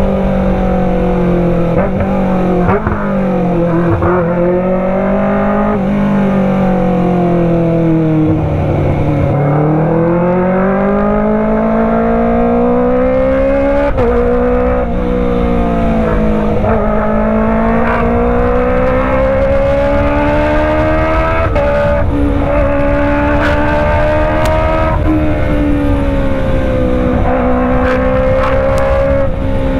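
Kawasaki ZX25R's 249 cc inline-four engine running through a Racefit Slash full-system exhaust under way. The pitch climbs steadily with the revs and drops on each shift or slowdown, several times over, with a long deep dip about a third of the way in.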